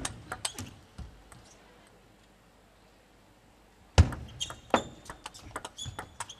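Table tennis ball clicking off bats and table: a few hits that die away, a pause of about three seconds, then a sharp hit about four seconds in and a quick run of rally clicks, with short squeaks of shoes on the court floor.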